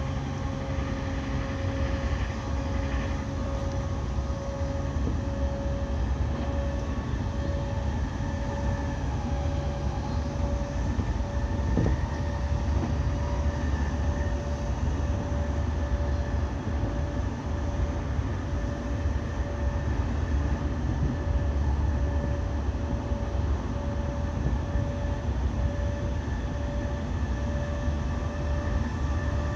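E217-series electric multiple unit running at speed: a continuous rumble of wheels on rail, with a thin, steady whine that creeps slightly higher in pitch.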